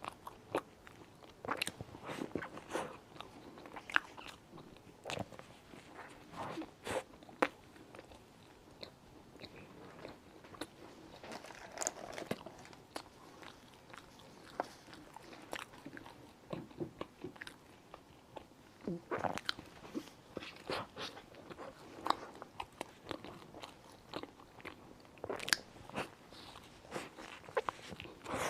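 Close-miked eating of a molten chocolate lava cake: a person biting and chewing, with irregular short wet mouth clicks and smacks throughout.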